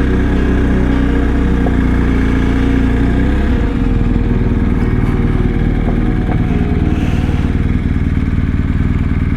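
Motorcycle engine running steadily under way, its note shifting about three and a half seconds in.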